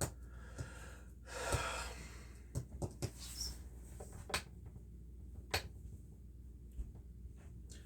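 A single breath or sigh close to the microphone, about a second and a half in, with a few short sharp clicks scattered through the rest.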